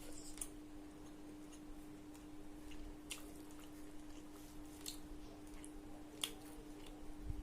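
A person chewing food, with soft wet mouth sounds and a few scattered sharp clicks, over a steady low hum.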